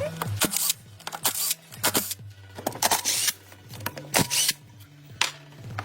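A string of irregular short clicks and brief scraping strokes, several to the second, over background music with a steady low bass line.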